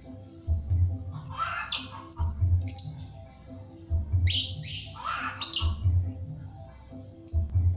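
Lovebird chattering in its rapid 'ngetik' song, which comes as repeated bursts of shrill chirps every second or two. Background music with a steady low beat runs underneath.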